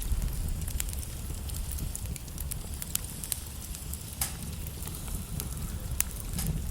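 Wood logs burning in a fireplace: a steady low rumble of flames with irregular crackles and sharp pops, two louder snaps about four and six seconds in.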